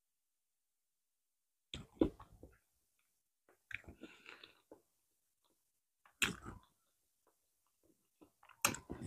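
Close-miked mouth noises of a woman eating banana: chewing and swallowing in four short bursts, about two seconds apart, with near silence between them.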